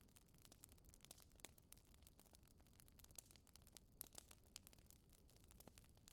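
Wood fire crackling in a fireplace: faint, irregular pops and snaps over a low steady hiss.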